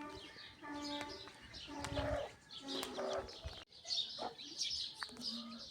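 Birds calling: a low cooing call of short repeated notes in the first half, with small birds chirping high throughout. The sound changes abruptly about two-thirds of the way through.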